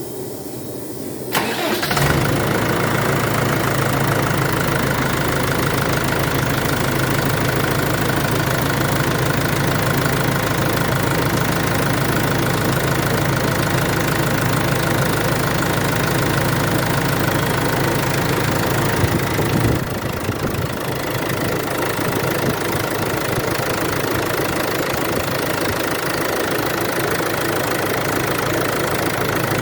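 Perkins four-cylinder diesel engine of a backhoe loader cranked on the starter, catching within about a second and then idling steadily, on its first start after a 500-hour service with fresh oil in. About two-thirds of the way through, its low note changes and it runs on.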